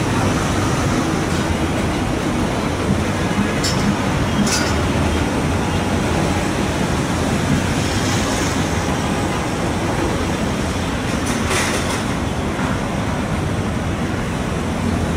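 Commuter train rolling away along the track, a steady rumble mixed with city traffic noise. A few brief, sharp, high-pitched sounds cut through it, around a quarter of the way in and again about three quarters through.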